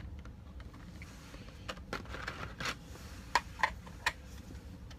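Handling of collectible figure parts and packaging: light rustling with scattered sharp clicks and taps, a few louder clicks in the second half.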